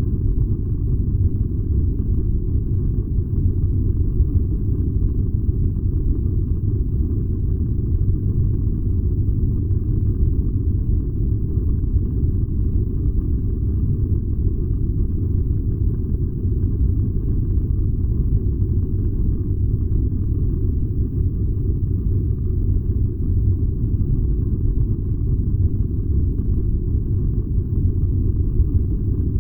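Furnace burning with a steady, deep rumble that does not change.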